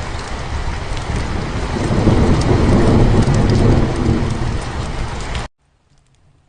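Heavy rain pouring steadily, with a low rumble of thunder swelling through the middle. It cuts off abruptly about five and a half seconds in, leaving only a few faint clicks.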